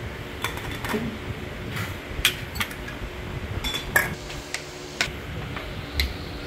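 Irregular light clinks and knocks of kitchenware being handled, dishes and utensils set down and moved, about a dozen sharp taps over a low steady background.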